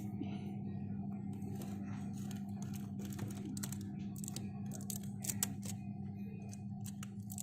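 Refrigerator humming steadily and low, with faint scattered clicks and taps over it.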